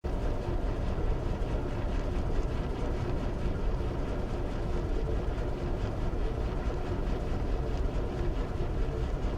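Steady low mechanical rumble of a large ship's machinery and propeller, with a faint steady hum over it.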